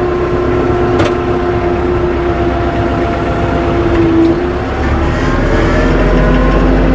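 Tractor engine running steadily under throttle while the tractor drives on snow chains, its pitch dipping about four seconds in and climbing back up a second later. A single sharp click about a second in.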